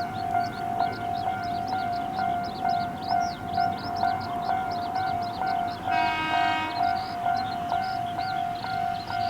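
Japanese level-crossing warning alarm ringing at an Ohmi Railway crossing: a steady electronic ding repeating about twice a second. About six seconds in, a train horn gives a short blast of under a second over it.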